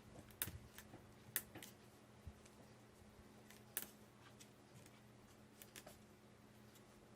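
Near silence with faint scattered light taps and clicks from handling craft pieces, about half a dozen spread irregularly, over a low steady hum.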